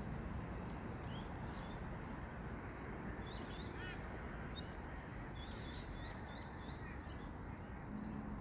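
Many birds calling: short, high chirps and quick rising and falling notes scattered throughout, over a steady rushing background noise.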